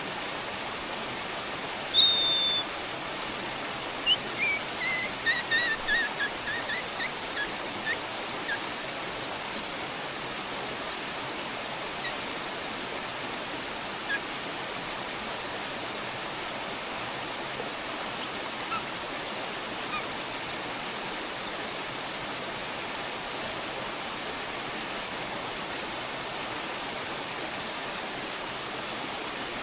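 A bird gives one sharp call, then a quick run of short notes falling in pitch, with a few faint calls after, over a steady hiss.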